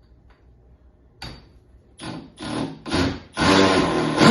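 Milwaukee M12 FUEL hammer drill driving a large screw: a few short trigger bursts, then from about three and a half seconds in it runs steadily under load with a loud motor whine.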